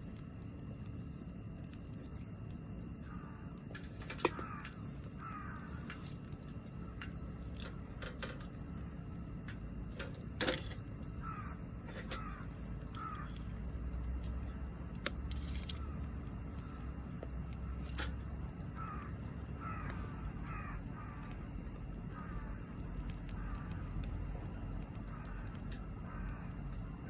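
Campfire burning with a few sharp pops of the wood. Crows caw in several runs of short repeated calls over it.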